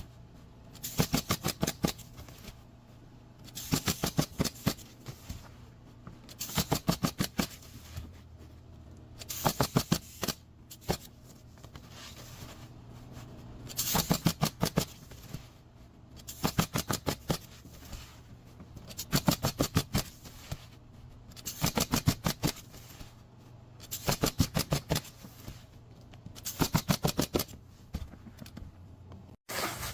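Repeated bursts of rapid, sharp mechanical impacts, each about a second long and coming every two to three seconds, over a steady low hum.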